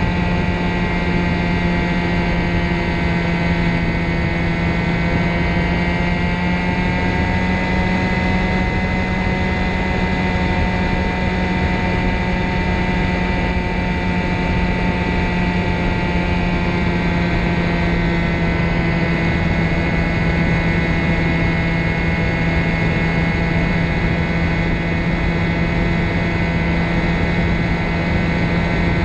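Ultralight trike's engine and pusher propeller running steadily at a constant drone over a rush of wind noise, its pitch shifting slightly now and then.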